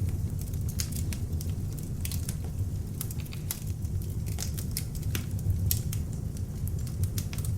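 Beech-wood log fire burning in an open fireplace, with irregular sharp crackles and pops over a steady low rumble from the flames.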